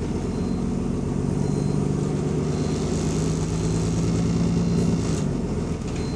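Double-decker bus diesel engine pulling at a steady pitch, then easing off about five seconds in; the bus has an exhaust leak.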